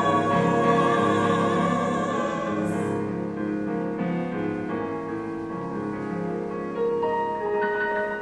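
Closing bars of a musical-theatre duet with piano accompaniment. A held sung note ends about three seconds in, and the piano plays on alone, gradually fading.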